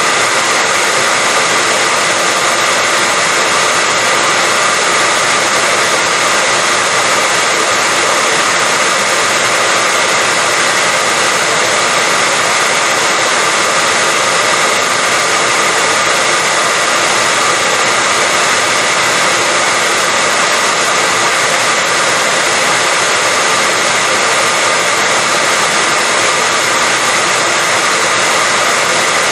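Hair dryer running at a constant setting: a steady rush of air with a steady high whine, with no change in pitch or loudness.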